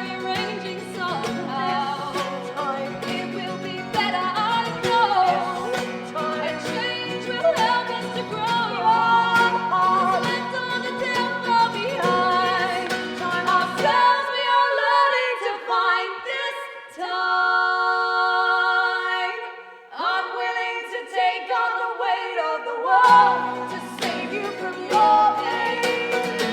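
Live folk-pop song with vocal harmony over acoustic guitar. About halfway through, the low guitar part drops out and the voices hold a long chord almost alone for a few seconds. The full accompaniment comes back near the end.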